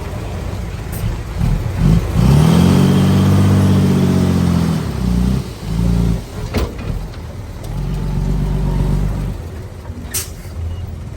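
Heavy earthmoving machine's diesel engine revving up about two seconds in, holding for a few seconds and easing off, then revving again more briefly later on. Two sharp metallic knocks come in between.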